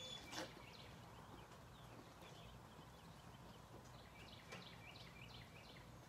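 Faint birdsong through an open door: scattered short chirps, in a cluster near the start and again past the middle, with a single soft click about half a second in.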